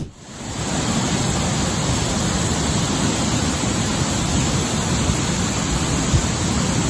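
Loud, steady rushing of fast-moving water. It comes in just after a brief click and fades out near the end.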